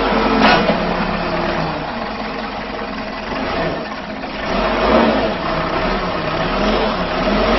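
Tractor engine running and rising and falling in speed as the machine works, with a sharp knock about half a second in.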